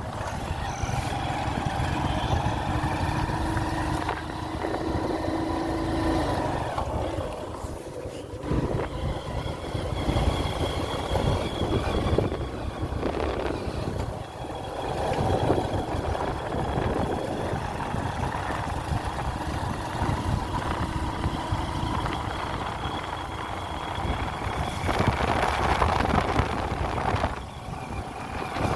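Motor vehicle engine running while driving, its pitch shifting now and then.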